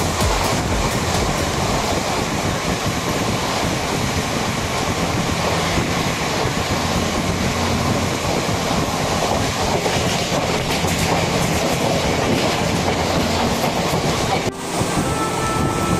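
Ganadevta Express passenger train running at speed, heard from an open coach doorway: a steady rumble and rush of wheels on rail and wind, with clickety-clack over rail joints. The noise dips sharply for a moment near the end, then carries on.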